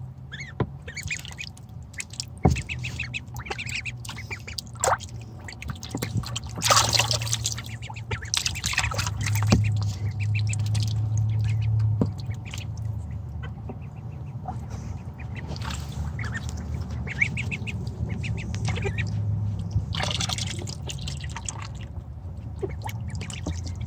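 Ducklings splashing and dabbling in a shallow bath of water, with many small drips and splashes and two bigger splashes, and short peeping calls in between. A steady low hum runs underneath.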